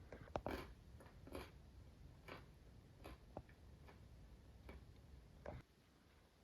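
Quiet, irregular light clicks and taps, about eight in all, a second or so apart; the loudest comes near the start.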